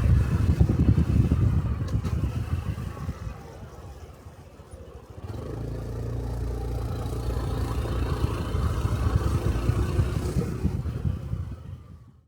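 Small Honda 125 cc single-cylinder motorcycle engine running on the road. It is loud and pulsing at first, eases off and drops away about three to five seconds in, then settles into a steady low running note that fades out near the end.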